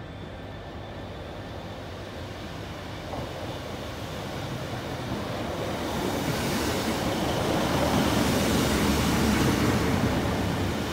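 Greater Anglia diesel multiple unit running into the station platform and past at close range. Its engine and wheel noise grow steadily louder and are loudest near the end.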